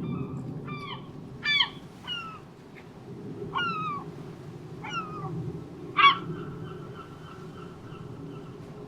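Gulls calling: about six short, downward-sliding cries, the loudest near the sixth second, over a steady low background rumble. A faint held tone follows the last cry.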